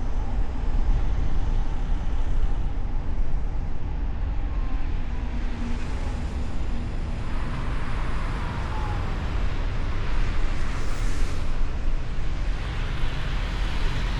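Car driving through city traffic, heard from a hood-mounted microphone: a steady low road and engine rumble, with the hiss of tyres and passing traffic swelling from about halfway through.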